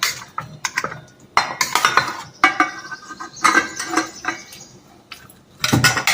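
Spoon clinking and scraping against a bowl in a string of irregular strokes as chicken pieces are added to curd and stirred, with a heavier knock near the end.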